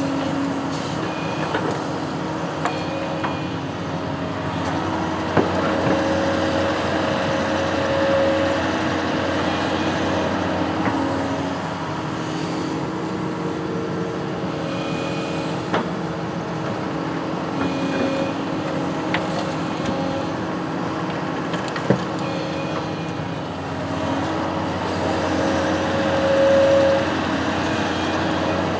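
Construction machine's engine running steadily, its pitch shifting up and down as it works, with a few sharp knocks and a louder swell near the end.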